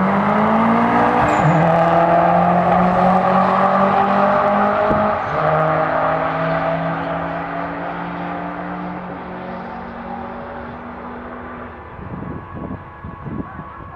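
Toyota Celica GT-Four ST165's turbocharged four-cylinder engine at full throttle on a drag run, its pitch climbing and dropping at gear changes about a second in and again about five seconds in. The sound fades steadily as the car pulls away down the strip, with a few low thumps near the end.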